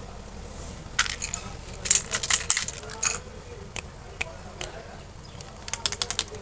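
Plastic candy packaging crinkling and crackling as it is handled and torn open, in short bursts of sharp crackles: one about a second in, a longer run around two to three seconds, and another flurry near the end.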